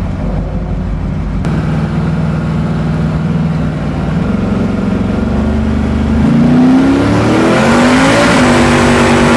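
Twin-turbocharged V8 of the 'F Bomb' Camaro heard from inside the cabin. It pulls at a steady note, then accelerates harder about six seconds in, its pitch rising before it levels off near the end.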